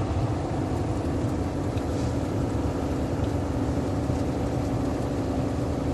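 Heavy truck coasting downhill off the throttle, heard from inside the cab: a steady engine drone with a constant low hum and road noise, unchanging throughout.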